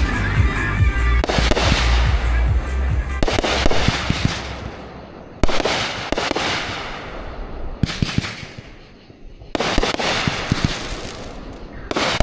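Aerial fireworks shells bursting: a series of sudden bangs, each followed by dense crackling that fades away over a few seconds, with a deep rumble in the first second.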